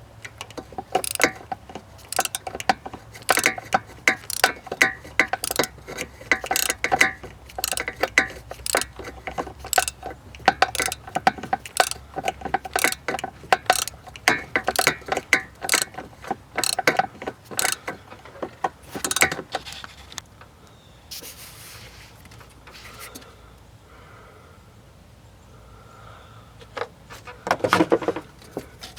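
Socket ratchet wrench clicking in short quick strokes for about twenty seconds as a bolt is worked loose, then stopping; a brief louder clunk near the end.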